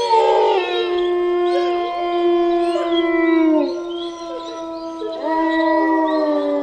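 Several animals howling together in long overlapping howls, held steady with some falling in pitch at their ends. A new howl rises in a little past the middle.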